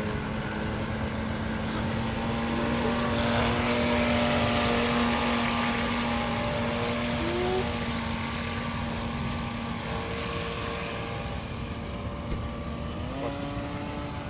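Traxxas Blast radio-controlled electric boat running on the water: a steady motor whine with a rushing hiss, growing louder about four to five seconds in, then easing, with the pitch rising briefly near the end.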